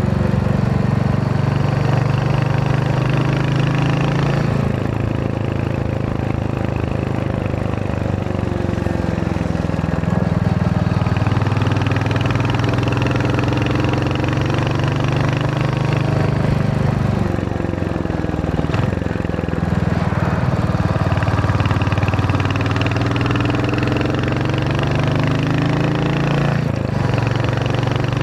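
Royal Enfield Hunter 350's single-cylinder engine and exhaust under way. The engine note climbs slowly and falls back about four times.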